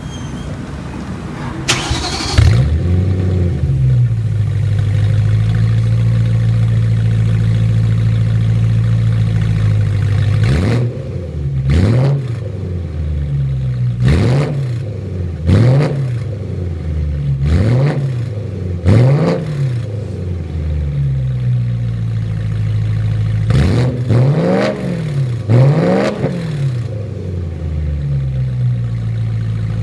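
BMW M3 convertible engine through a Remus sport exhaust with an X-pipe: it starts about two seconds in and settles to a steady high idle. From about eleven seconds it is revved in about eight short blips, each rising and falling in pitch, and drops back to idle near the end.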